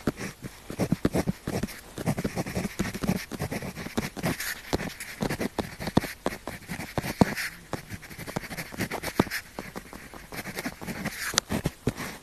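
Close-miked pen tip writing on paper: quick, irregular scratching strokes and small taps.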